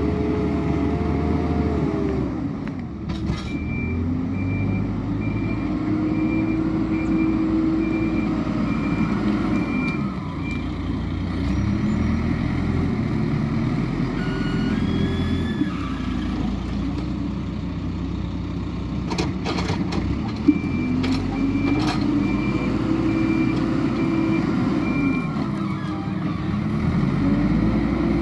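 Hidromek 102S backhoe loader's diesel engine revving up and down repeatedly as it works under hydraulic load. Its reversing alarm beeps steadily for several seconds, twice.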